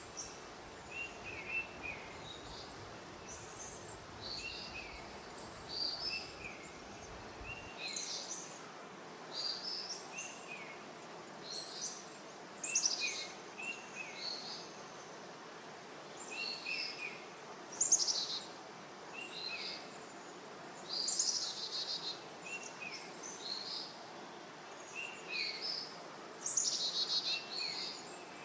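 Birds calling in the open. One bird repeats a short falling call about every second or two, while others add higher chirps throughout.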